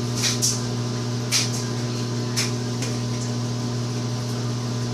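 Microwave oven running: a steady low hum, with a few short, high crackles scattered through it, about a second apart.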